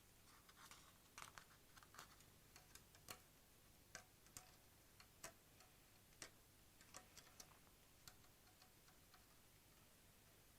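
Faint, irregular small clicks and ticks of plastic spiral cable wrap being wound around a bundle of wires by hand.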